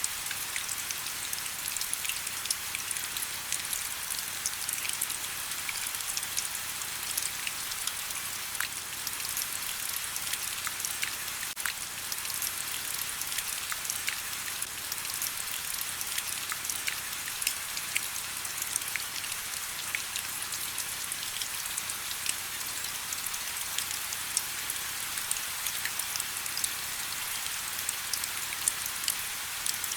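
Steady rain: an even hiss of rainfall with many sharp, close drop taps scattered throughout.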